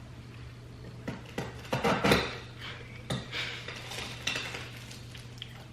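Cutlery clinking and scraping against a dish, several short strikes with the loudest cluster about two seconds in, over a steady low hum.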